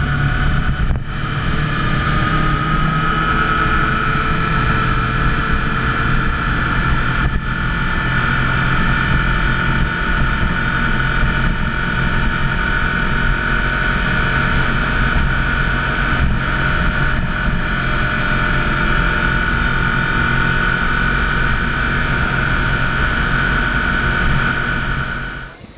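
Motorcycle engine running steadily while riding, its pitch climbing slowly in the first few seconds and then holding. It stops suddenly near the end.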